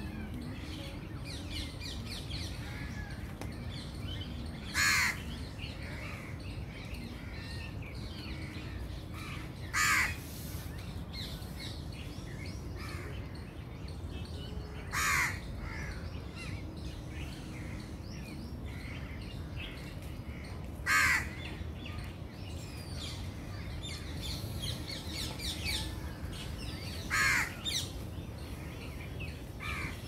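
Outdoor birdsong: one bird gives a loud single call five times, about every five to six seconds, while smaller birds chirp faintly in between.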